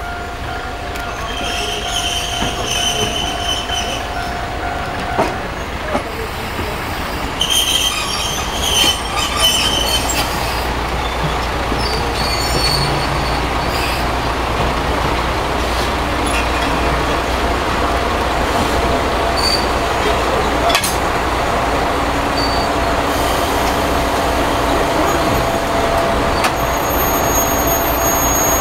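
Kiha 37100 diesel railcar creeping up to couple with a waiting railcar. Its diesel engine rumbles, the wheels squeal on and off, and a few sharp knocks come through, the clearest about three quarters of the way in.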